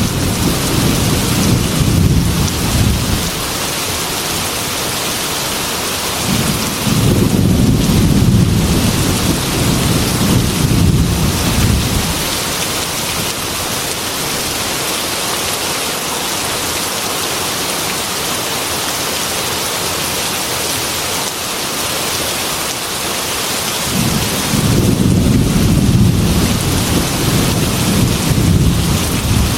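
Heavy rain beating on window glass, a steady hiss, with rolling thunder. One rumble fades out in the first few seconds, another runs from about seven to twelve seconds in, and a third begins near the end.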